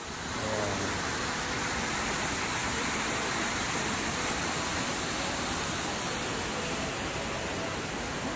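Waterfall pouring steadily: a dense, even rush of falling water that sets in at full strength as the music before it cuts off.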